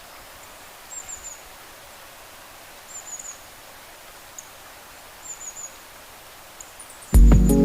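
Steady outdoor hiss with three short, high bird chirps about two seconds apart. Music comes in loudly near the end.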